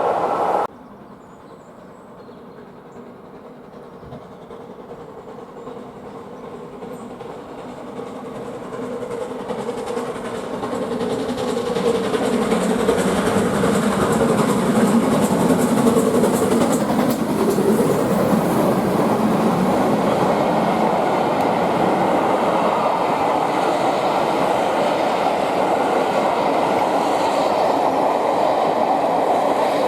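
A train approaching and passing, growing steadily louder over about ten seconds and then running loud and steady as it goes by, with its wheels on the rails.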